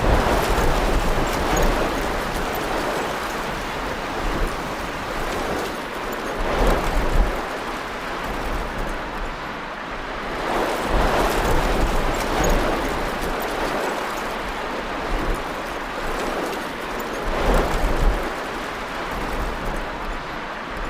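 Storm wind and rain: a steady rush that swells in gusts every few seconds, with low buffeting of the wind on the microphone.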